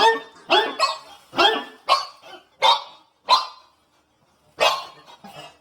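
A dog barking, a run of about seven sharp barks roughly half a second apart, with a pause of about a second before the last.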